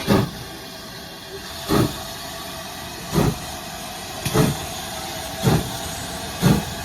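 Steam locomotive getting under way: loud exhaust chuffs about a second or more apart, gradually quickening, over a steady hiss of steam.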